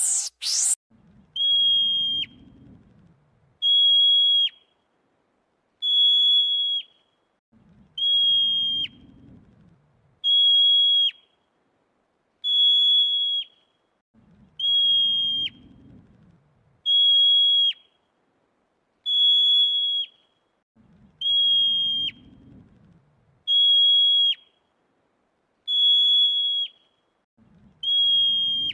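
A high-pitched whistle-like tone repeated evenly about every two seconds, each tone lasting under a second and ending in a quick drop in pitch, with faint low rumbles every six seconds or so. It opens with a short loud rising swish.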